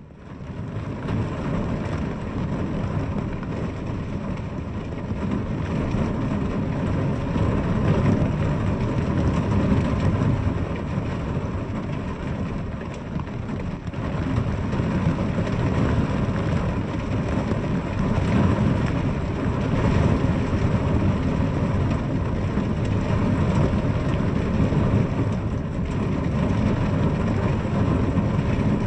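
Steady rain falling on a window, an even, dense hiss with a heavy low rumble, rising in quickly at the start.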